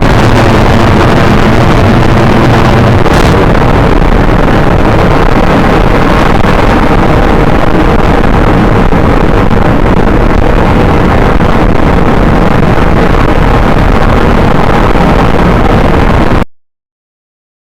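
Engine running very loud and steady, then cutting off abruptly near the end.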